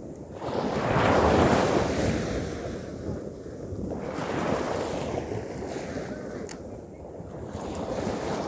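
Ocean waves washing onto a beach, with a loud surge about a second in and smaller swells after it.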